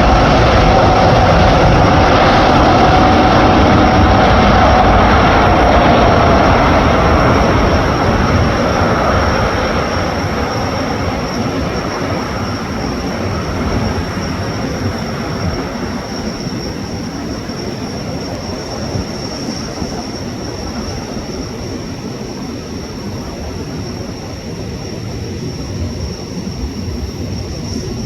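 Airbus A380 jet engine noise, loud at first with a slightly falling whine, then fading over several seconds to a lower, steady rumble as the airliner moves away. A faint high steady whistle runs underneath.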